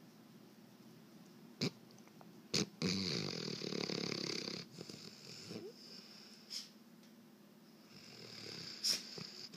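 Weimaraner dog snoring in its sleep: one loud, rattling snore about three seconds in lasting a second and a half, and a softer snoring breath building near the end. A few short sharp clicks fall between them.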